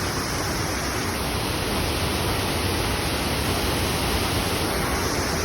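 River waterfall: water falling and rushing in a loud, steady roar.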